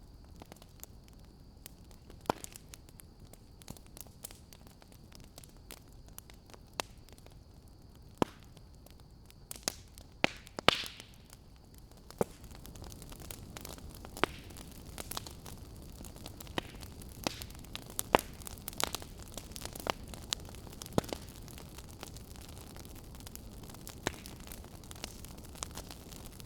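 Wood fire crackling in a fireplace: irregular sharp pops and snaps over a soft steady hiss. A quick run of louder pops with a brief hiss comes about ten seconds in, and the hiss grows slightly louder soon after.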